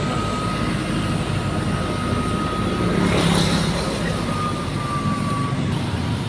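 Steady low engine rumble with a faint thin high tone, swelling briefly about three seconds in.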